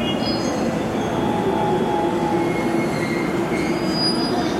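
Yamanote Line E231-500 series electric train braking to a stop at the platform: the wheels and brakes squeal in several high steady tones over a steady hum from the train.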